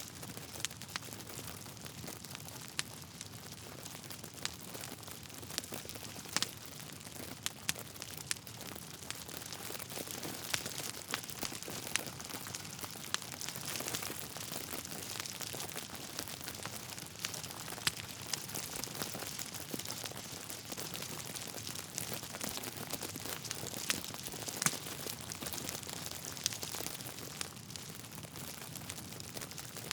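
Wood fire crackling steadily, with frequent sharp pops and snaps from the burning logs over a soft hiss.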